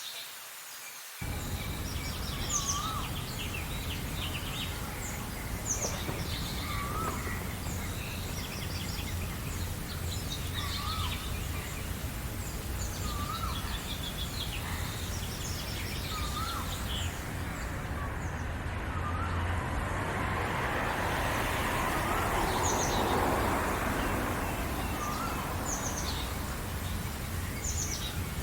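Several birds chirping and singing, one repeating the same short hooked call about every two seconds while others add quick high chirps. Under them a steady low rumble of background noise comes in suddenly about a second in, and a broad swell of noise rises and fades past the middle.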